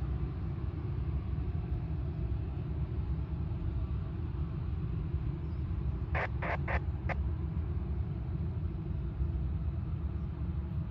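Steady low rumble of jet aircraft around the airport, with a quick run of four short, sharp sounds about six seconds in.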